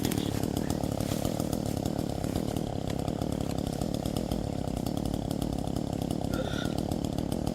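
Chainsaw running steadily without pause.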